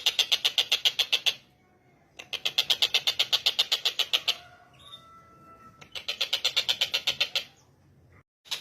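Tengkek buto bird giving fast, rattling call series of about a dozen pulses a second, in three bouts of one to two seconds with short pauses between, a fourth starting at the very end.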